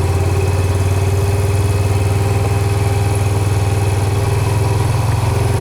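Vehicle engine running steadily at low speed with an even low pulsing, cutting off suddenly at the end.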